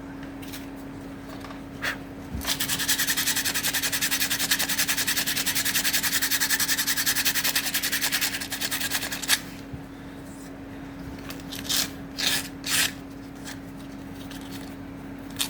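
Acacia wood being worked by hand with quick, even abrasive strokes for about seven seconds, starting a couple of seconds in, followed by a few short separate scrapes near the end.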